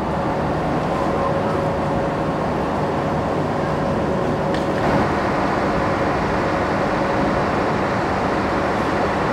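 Steady mechanical drone of a diesel-hauled passenger train standing at a station platform: a constant hum over an even rumble.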